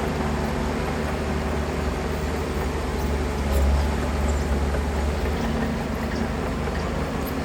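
Diesel engine of heavy earthmoving machinery running with a deep, steady rumble, briefly swelling louder about halfway through.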